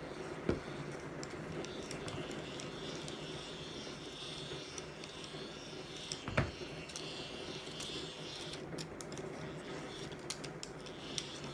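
Sony ICF-B88 hand-crank radio's dynamo being wound by hand, a steady gear whir with a sharp click about half a second in and another about six seconds in, plus a few light ticks near the end. The cranking is charging a smartphone from the radio.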